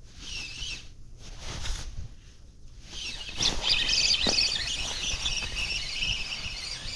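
Small birds chirping: a short chirp at the start, then a dense run of twittering from about three seconds in.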